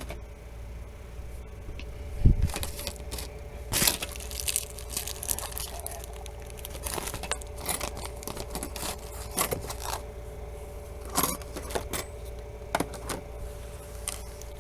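Rummaging through clutter on a desk: scattered clicks, light clatter and rustling of small objects being moved, with a dull thump about two seconds in.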